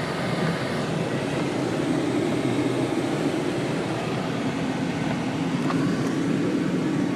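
A car running, a steady low rumble.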